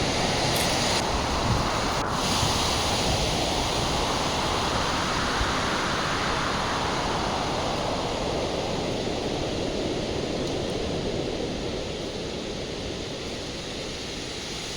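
Strong gusty wind rushing, swelling and easing, with wind buffeting the microphone; it dies down somewhat toward the end.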